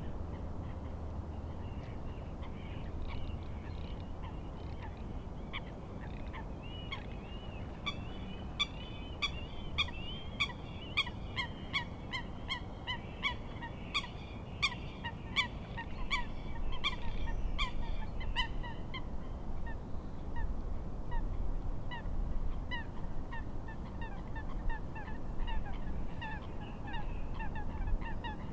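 A flock of birds calling, geese-like: many short calls that slide downward, a couple a second, thickest through the middle. A steady low rumble of wind and lapping waves runs underneath.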